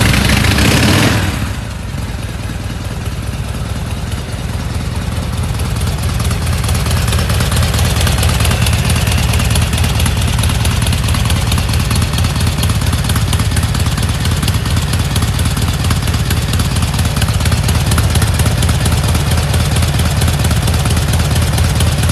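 Engine of a classic motorcycle more than fifty years old, running just after being started. It is loud in the first second or so, then settles into a steady idle that grows gradually louder.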